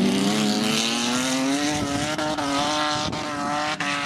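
Banger racing car's engine running hard under load on the oval, its pitch rising slowly and then holding steady, over a steady rush of background noise.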